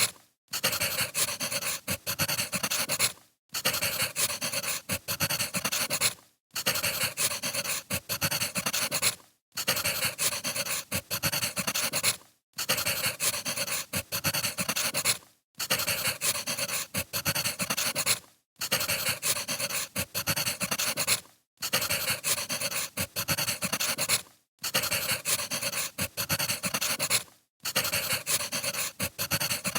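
Wood fire crackling with dense small pops and snaps. A short stretch of it repeats about every three seconds, each repeat cut off by a brief moment of silence.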